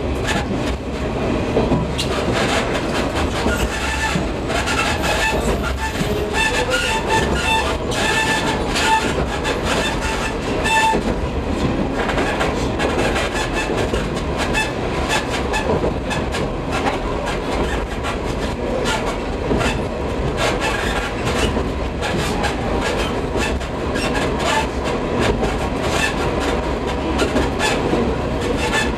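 Diesel railcar of the Iwate Development Railway running downhill on single track, its wheels clicking steadily over the rail joints. A few short high-pitched tones sound around the middle.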